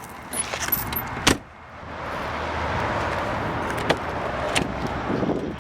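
A car door shuts with one sharp knock about a second in, followed by a steady rushing noise and a few light clicks of handling.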